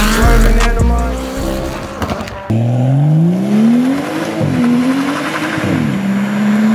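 Hip-hop music with a heavy bass beat until it cuts off about two and a half seconds in, giving way to a car accelerating hard away: the engine pitch climbs, drops at a gear change, climbs again, then holds steady.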